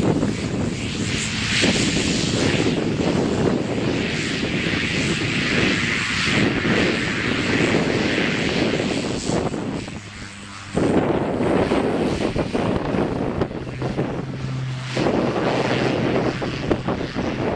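Aircraft engine running loud and steady, broken by a brief dip about ten seconds in. A steady low hum joins it for the last few seconds.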